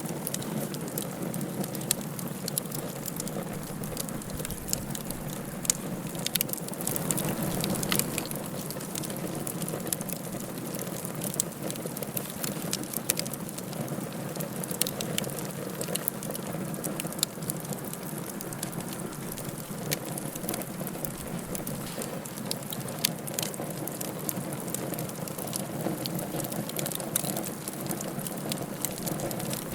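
Wood fire burning in a fireplace: a steady hiss with sharp crackles and pops scattered irregularly throughout, and a brief swell in the flames about seven seconds in.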